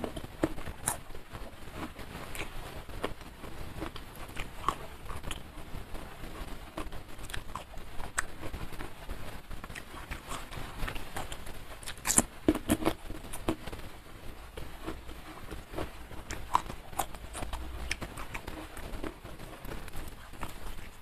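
Close-miked eating sounds: wet chewing and lip smacks with scattered clicks, at irregular intervals, from a mouthful of rice and sambal eaten by hand. A louder cluster of smacks comes about halfway through.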